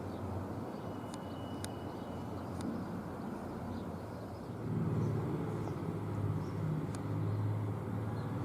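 Airbus A400M Atlas's four TP400 turboprops heard from the ground while the aircraft flies high overhead, a deep, loud buzz. It holds steady and swells louder about halfway through.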